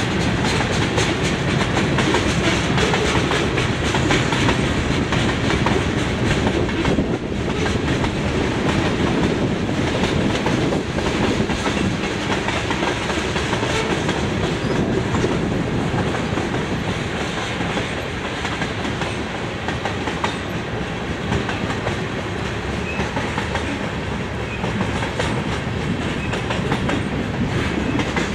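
Freight train's tank cars and covered hopper cars rolling past: a steady rumble of steel wheels on the rails, with a light clatter throughout.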